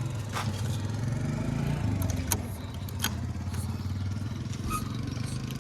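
Heavy diesel engine running at a steady speed, with a few sharp knocks and clicks over it.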